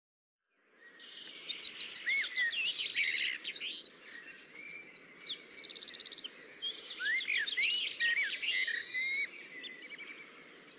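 Songbirds singing and calling together, several voices at once: whistled slurs, chirps and fast trills of repeated notes. It begins about a second in and drops quieter near the end.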